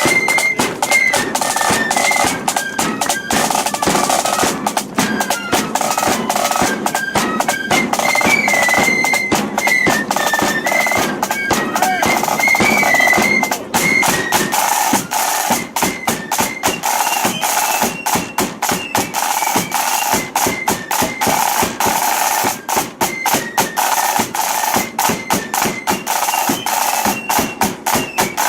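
Marching flute band playing: flutes carry a high melody over snare drum rolls and bass drum. The drumming grows heavier and busier about halfway through.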